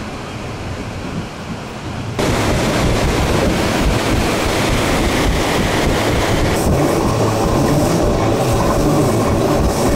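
Wind and rail noise through the open window of a moving Bernese Oberland Railway narrow-gauge train. About two seconds in, the noise suddenly grows louder as another train passes close alongside on the next track, and it stays a steady loud rushing and rumbling.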